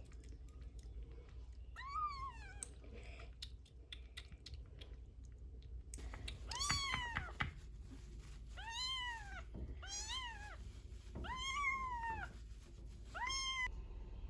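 A very young kitten, about three weeks old, meowing high and insistently: one faint meow about two seconds in, then a run of five or six loud meows, each rising and falling, from about six seconds on. Crying like this is how the kitten calls out when it is hungry.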